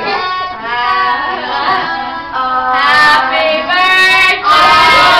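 Young girls' high voices singing loudly, holding drawn-out notes, louder from about four and a half seconds in.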